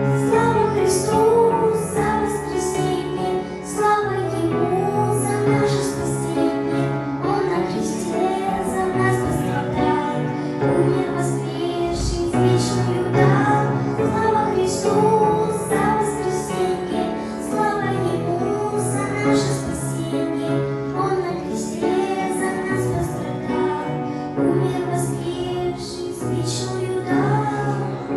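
A high voice singing a melody over instrumental accompaniment.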